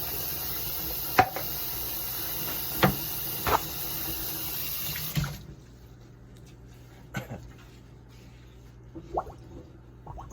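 Water running from a tap, with a few sharp knocks and clunks, shut off suddenly about five seconds in. A few light knocks follow.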